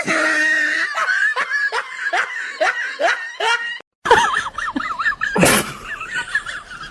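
Laughter in a run of repeated falling bursts, about three a second. After a sudden cut about four seconds in, high wavering calls follow.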